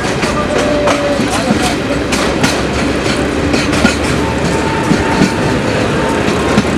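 Passenger train running, heard from inside the coach: a steady rumble with wheels clacking over rail joints, and passengers' voices underneath.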